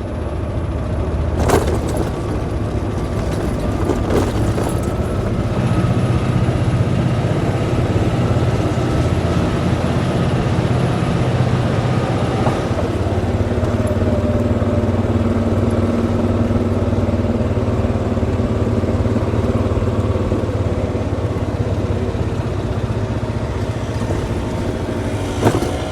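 Golf cart driving along a paved path: a steady running hum of the cart's motor with tyre and road noise, and a few light rattles.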